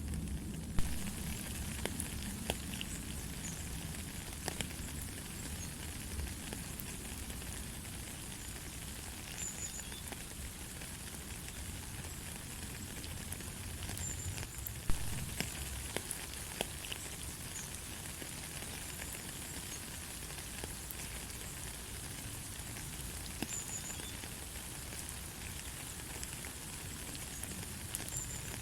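Steady light rain with scattered drops ticking, and two sharper taps, about a second in and about halfway through.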